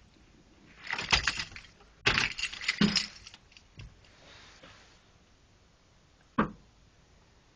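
Jingling, clattering handling noise in two bursts, about a second in and again about two seconds in, followed by a single sharp click near the end. No engine is running.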